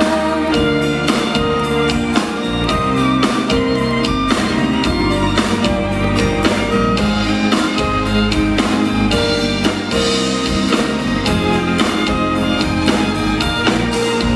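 Live pop band playing an instrumental break with no singing, a drum kit keeping a steady beat under sustained chords.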